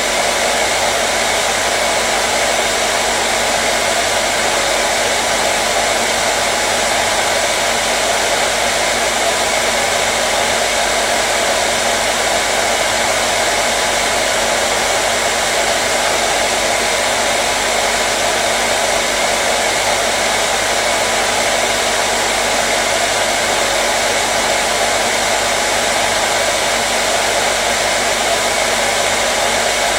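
Hair dryer running continuously, a steady loud rushing of air with a faint motor hum underneath, no change in speed.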